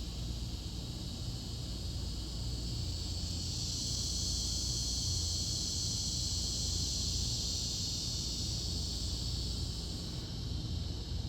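Outdoor insects buzzing in a steady high chorus that swells about three seconds in and fades near the end, over a low steady rumble.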